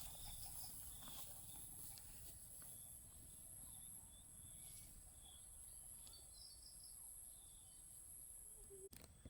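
Faint outdoor nature ambience: a steady high-pitched insect-like drone with scattered short chirps over a low rumble of wind.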